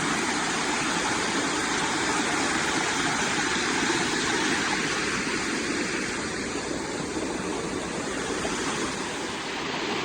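Steady rush of water pouring with force, like a small waterfall, easing off a little in the second half.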